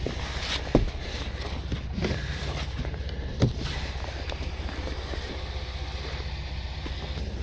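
Vehicle engine idling steadily, with two dull knocks, about a second in and about three and a half seconds in.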